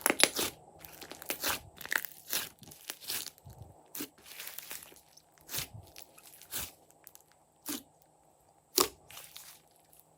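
Slime being pressed and kneaded by hand, giving irregular crunchy crackles and pops, several a second with short pauses.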